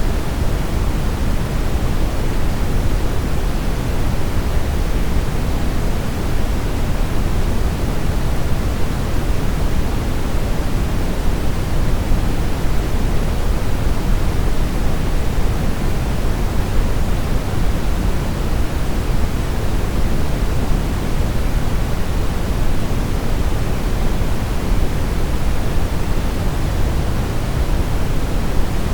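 Steady brown noise: an even, deep hiss with its weight in the low end and no changes or events.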